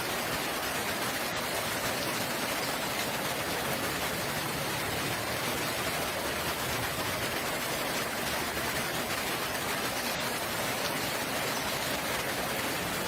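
Steady, unbroken rainfall.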